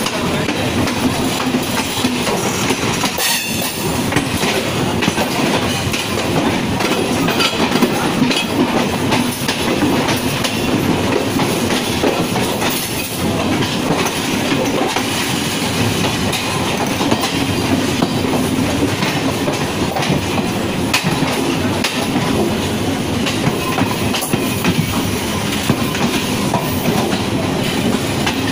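A train in motion heard from on board a MEMU electric multiple unit, with steady running noise and wheels clattering and knocking over rail joints.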